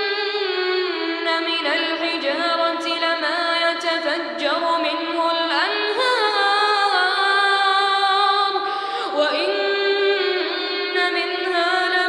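A child reciting the Quran in a melodic, chanted style: one high voice holding long notes that wind up and down in pitch, with brief breaks between phrases.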